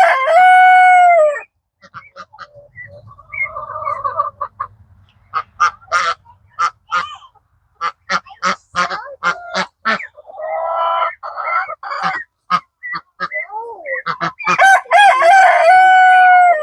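Rooster crowing twice, once at the start and again near the end, each crow ending on a long held note. In between, a run of short clucks and calls from the flock.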